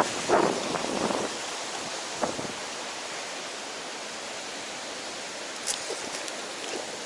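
Wind buffeting the microphone for the first second or so, then a steady rushing hiss, with a single short click near the end.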